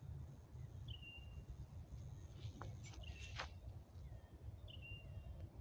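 Birds calling in woodland: a short high call repeated three times, a couple of seconds apart, over a low rumble of wind. A few sharp clicks sound near the middle.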